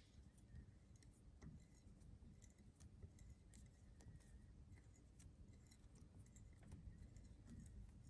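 Faint, irregular light clicks over a low steady hum, near silence: small hand-tool work, a tap cutting a thread in a metal rod.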